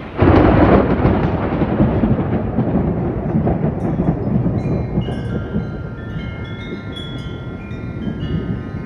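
A loud thunderclap breaks suddenly just after the start and rolls on as a long rumble that slowly fades. From about halfway through, wind chimes ring with several overlapping high tones.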